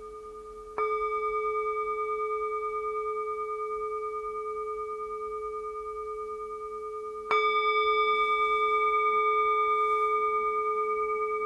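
Meditation bell struck twice, about six seconds apart, each strike ringing on with a slow, wavering sustain over the fading ring of an earlier strike. It marks the end of a sitting meditation.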